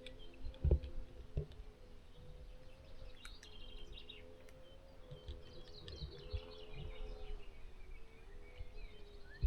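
Small birds chirping on and off over a steady, slightly wavering drone, with a few low bumps.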